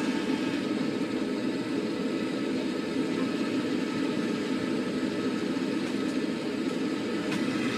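2013 Carrier Infinity Series gas furnace running steadily during its startup cycle, a constant mechanical hum without change.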